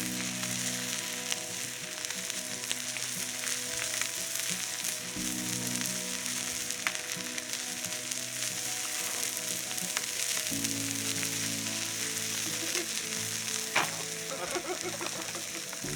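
Food frying in a pan: a steady sizzling hiss with a few small pops, under background music whose chords change every few seconds.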